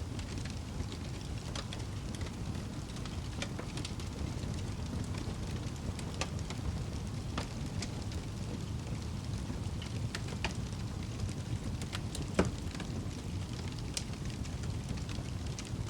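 Fire burning in a fireplace: a steady low rumble with scattered light crackles and one louder pop about three-quarters of the way through.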